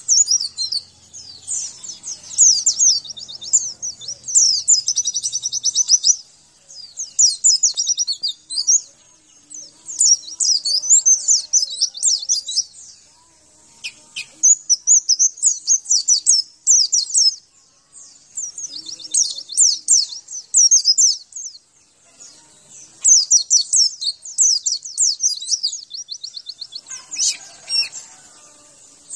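White-eye (pleci) song: rapid, high-pitched twittering phrases, each a second or two long, repeated after short pauses.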